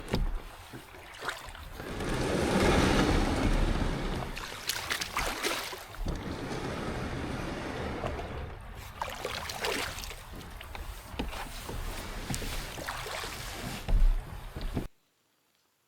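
Water splashing and rushing around a kayak on a creek, with wind on the microphone and a few knocks. It swells loudest about two to four seconds in and cuts off suddenly near the end.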